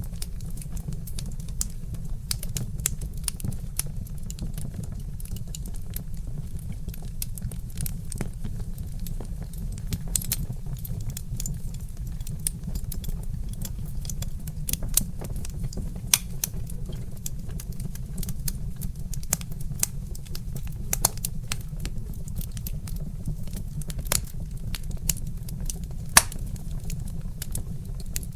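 Wood fire crackling and popping: many irregular sharp snaps from burning logs, a few louder pops among them, over a steady low rumble.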